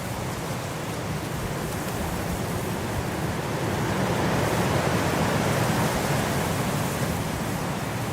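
Blizzard wind blowing, a steady rushing noise that swells into a stronger gust about halfway through and eases toward the end.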